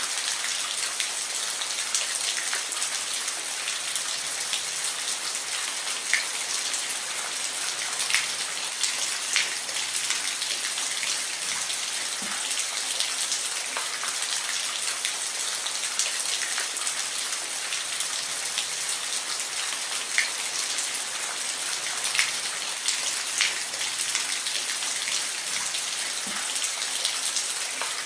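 Steady rain with scattered individual drops tapping sharply on a surface now and then.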